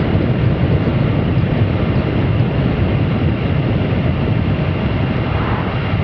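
Steady wind rush and riding noise on the microphone from a Triumph Sprint RS motorcycle under way, its 955 cc three-cylinder engine running beneath.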